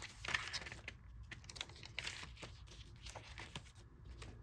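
Paper pages and inserts of a handmade junk journal being handled, rustling and crinkling with scattered light taps and clicks.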